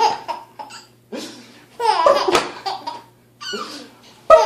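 A baby laughing in about four separate bursts, answering an adult's funny noises.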